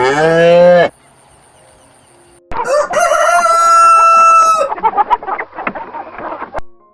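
A rooster crowing: a short call, then after a pause a long crow that rises and holds, followed by a run of short clucks.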